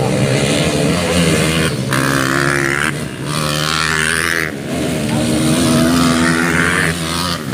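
Motocross bikes' engines revving on the track, their pitch rising and falling repeatedly as the riders work the throttle.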